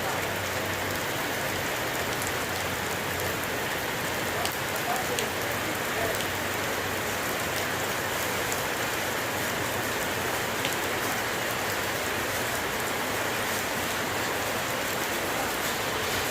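Heavy rain falling steadily, with small scattered drops hitting nearby surfaces.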